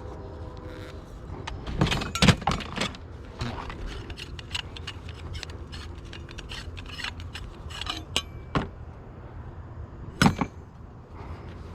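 Metal scrap pieces being handled and sorted, a run of small clinks and clatters with two louder knocks, about two seconds in and near the end.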